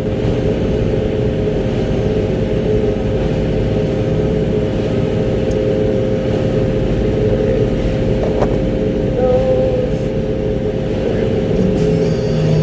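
Concrete mixer truck's diesel engine running steadily, heard from inside the cab, with a constant low hum and rumble.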